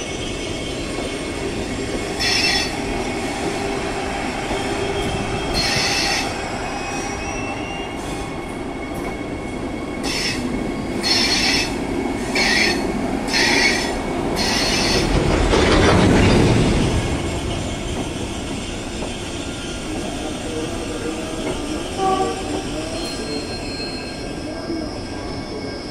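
Vande Bharat Express electric train set rolling very slowly, with a steady running rumble and repeated short high-pitched squeals from the running gear, a cluster of about five coming close together midway. A louder rush swells and fades soon after the squeals.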